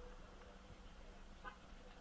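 Near silence: a faint low background rumble, with one brief high chirp about one and a half seconds in.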